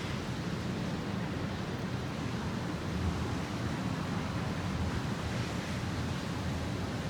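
Steady hiss of rain falling during a thunderstorm, with a low rumble underneath.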